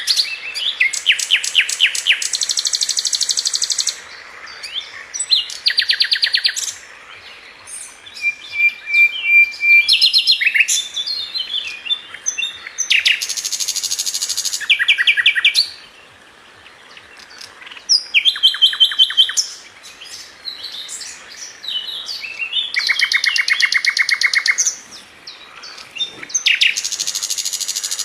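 Flycatcher known in Indonesia as sikatan London singing in bursts of rapid trills: fast runs of repeated high notes, each phrase about one to two seconds long, with short pauses between phrases.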